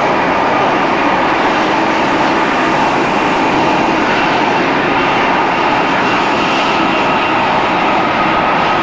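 Boeing 777 jet engines and rushing air during the landing approach: a loud, steady noise that holds level throughout, with faint high whining tones running through it.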